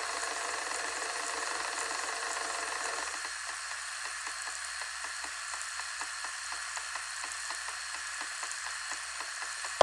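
Digital audio tape (DAT) player-recorder running: a steady mechanical whir and hiss that thins out about three seconds in into hiss with a regular ticking, about three to four ticks a second. A sharp clunk comes right at the end.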